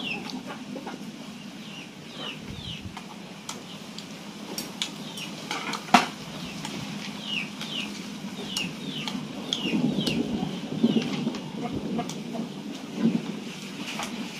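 Bird chirping: short high calls that fall in pitch, repeated again and again, often in twos. A sharp click about halfway through and faint handling noise sit underneath.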